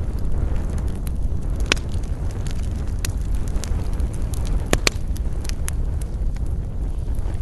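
Wood fire burning with a steady low rumble, crackling and popping with a few sharp snaps.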